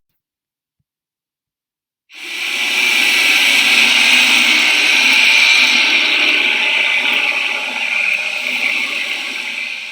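Underwater recording of a human-made noise source: a steady, loud rushing noise that starts about two seconds in after silence.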